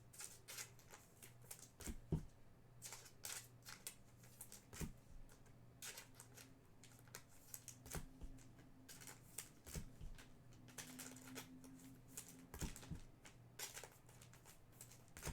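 Trading cards being handled and sorted: scattered faint clicks and rustles, over a low steady hum.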